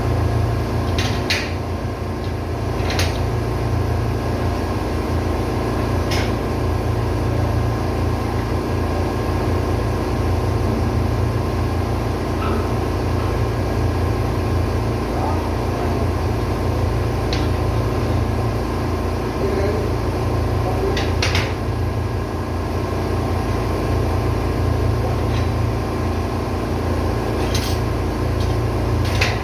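Ship's auxiliary engine running steadily in the engine room, with a few sharp metallic clinks or knocks over the top.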